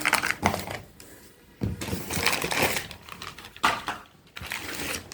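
Mixer-grinder jars and their packaging being unpacked by hand: irregular knocks and clatter mixed with rustling of packing material.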